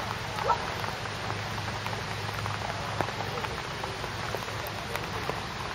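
Steady rain with scattered drop ticks. A short rising squeak about half a second in.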